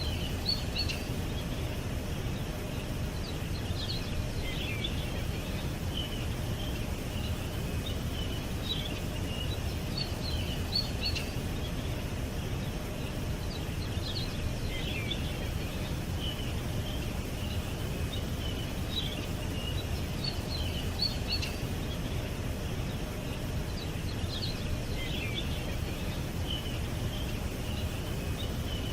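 Small birds chirping and calling in short, scattered phrases over a steady low background rumble.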